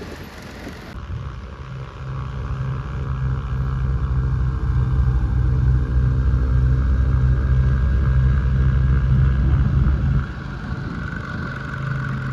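Engine of a cab-equipped snowblower machine running under load. It grows louder as the machine comes closer over the first few seconds, holds steady, then drops off sharply about ten seconds in.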